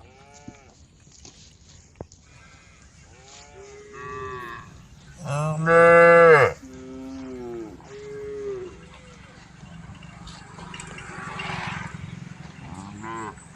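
Several cows mooing one after another, some calls overlapping, with a long, loud moo about five seconds in.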